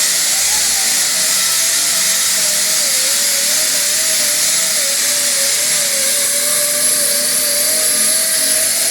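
Rotary sander with a 36-grit disc, spinning at about 5,000 RPM, grinding old paint and body filler off a car's steel body panel. A steady whine over a loud grinding hiss, the pitch wavering slightly as the disc is tilted and worked back and forth against the metal.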